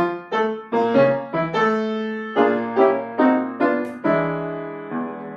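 A plucked string instrument and a piano playing a brisk tune in short, separately struck notes that each quickly fade, with a longer note left ringing about four seconds in.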